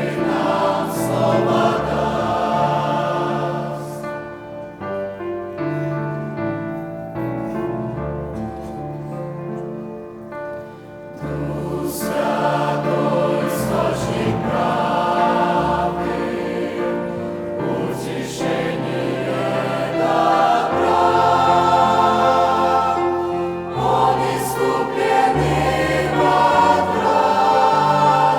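Church choir singing a Russian-language hymn in sustained chords. It is softer for several seconds, then swells louder from about eleven seconds in.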